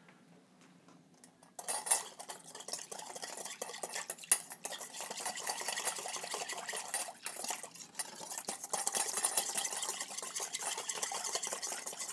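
A whisk beating a thin cornstarch, orange juice and ginger sauce in a small bowl: a fast, continuous clatter of wires against the bowl, starting about a second and a half in.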